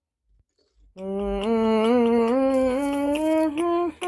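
A voice humming a wordless line of held notes that step slowly upward in pitch, starting about a second in and breaking off briefly near the end.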